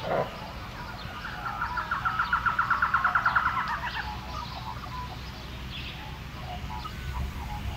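A bird's rapid, evenly pulsed trill lasting about two and a half seconds, starting a little over a second in, followed by a few faint short chirps.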